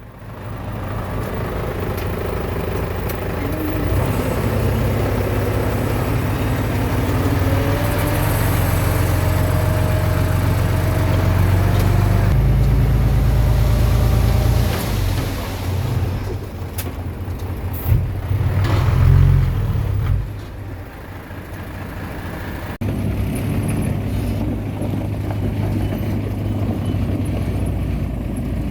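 Bulldozer's diesel engine running heavily while pushing soil, with a slowly rising whine partway through and a sharp clank a little over halfway, then the engine settling lower for a few seconds.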